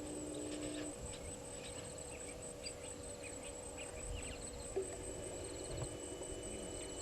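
Bush ambience: a steady, pulsing high-pitched insect trill, with many short bird chirps and whistles in the first few seconds.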